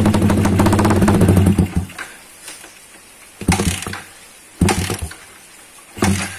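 Yamaha Vixion motorcycle with an aftermarket racing exhaust being revved: a held high rev that drops away about two seconds in, then three short throttle blips, idling quietly in between.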